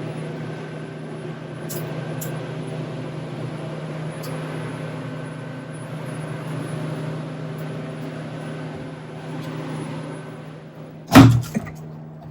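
Steady low mechanical hum with faint background room noise, then a single loud knock near the end.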